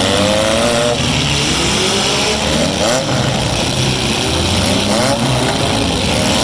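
Several four-cylinder demolition derby car engines running hard at once, their revs rising and falling as the cars accelerate and back up.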